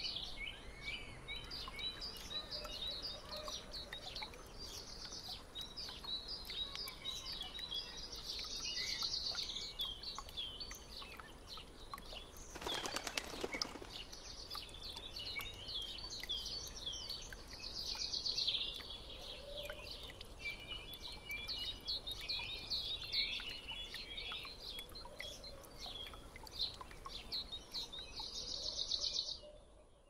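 Songbirds singing: a dense chorus of quick, high chirps and trills from several birds, with a short burst of noise a little before the middle.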